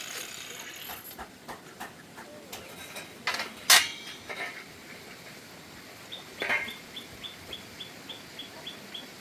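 Scattered knocks and clicks of metal being handled, with one sharp loud clack a little before halfway. From about two-thirds in, a short high chirp repeats at an even pace of about four a second.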